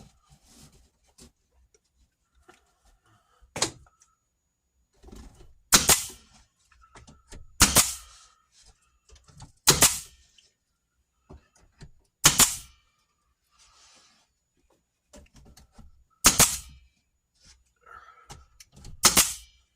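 Staple gun firing staples into the wall, seven sharp shots spaced irregularly a few seconds apart, with faint handling noises between.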